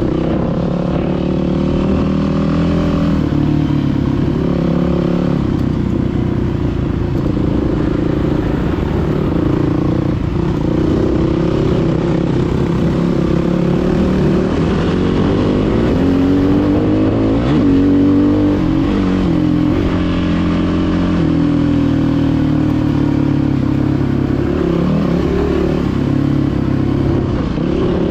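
Dirt bike engine running under way, its pitch rising and falling repeatedly as the throttle opens and closes.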